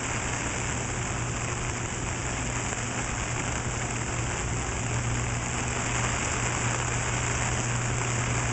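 Steady rain falling on an umbrella held over the microphone, with a steady low hum underneath.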